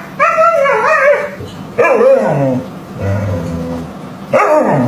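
A dog vocalizing: a run of about four whiny, yowling calls that waver and fall in pitch, with a lower, drawn-out one about three seconds in.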